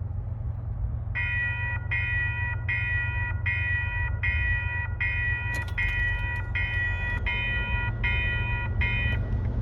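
Railroad grade-crossing warning device sounding an unusual electronic alarm: a pitched tone with overtones repeating just under twice a second, starting about a second in. Under it runs a steady low rumble.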